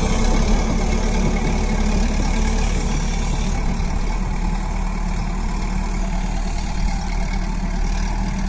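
Tractor engine running steadily at low revs, a constant low drone.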